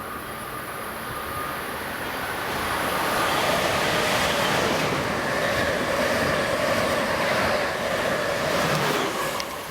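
Amtrak Acela electric trainset passing on the near track: a rush of wheel and air noise that swells over the first few seconds, stays loud, then cuts off sharply near the end as the train clears.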